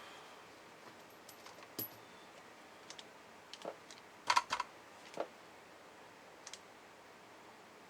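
Scattered light clicks and taps of small parts and tools being handled on a workbench, loudest in a quick cluster of sharp clicks about halfway through.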